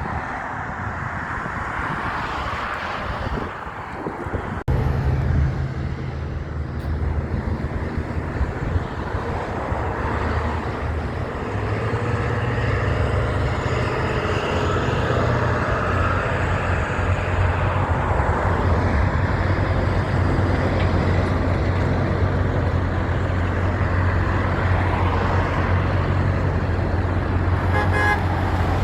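Heavy diesel truck engine running close by: a loud, steady low rumble that comes in suddenly about five seconds in and holds, over general traffic noise.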